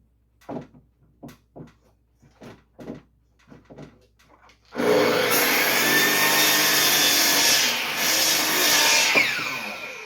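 Electric saw cutting a wooden floor board to length: a run of light knocks as the board is handled, then the saw starts suddenly about halfway in and cuts for a few seconds. Near the end the blade spins down with a falling whine.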